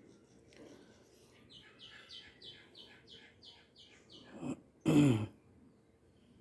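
A bird in the background calling a run of about nine quick repeated chirps, roughly three a second. About five seconds in comes a brief, loud human vocal sound.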